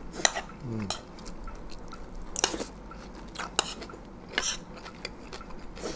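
Eating sounds of someone chewing a mouthful of the food: about five short, wet smacking clicks spread out, with a brief low murmur about a second in.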